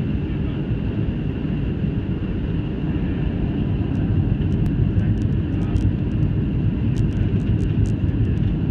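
Steady engine and airflow rumble heard inside the cabin of a Southwest Airlines Boeing 737 on its approach, with a faint steady whine above it. Scattered light clicks begin about four seconds in.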